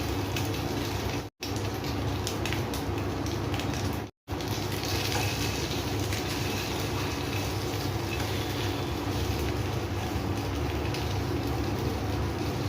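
Food sizzling in a pan over a steady low hum, with a few light clicks. The sound cuts out completely twice, briefly, about a second and a half in and again about four seconds in.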